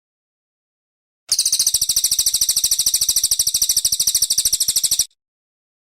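A cililin coklat songbird's rapid, high-pitched trill of evenly repeated notes, about fifteen a second. It starts abruptly just over a second in, runs for nearly four seconds and cuts off sharply.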